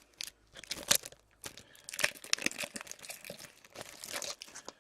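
Foil wrapper of a hockey card pack crinkling and tearing as it is opened, a run of irregular sharp crackles.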